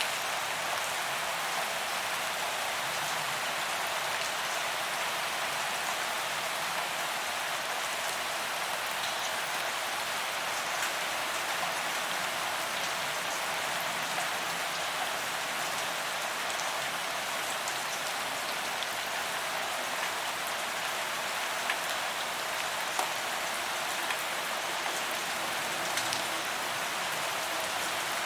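Steady rain falling on pavement, an even hiss with scattered drop ticks.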